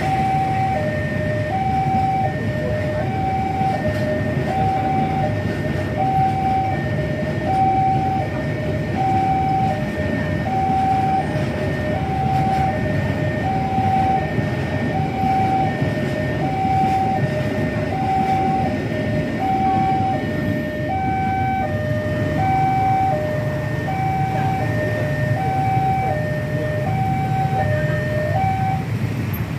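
Railway level crossing warning alarm sounding an alternating two-tone electronic chime, high then low, about once every second and a bit, over a steady low rumble.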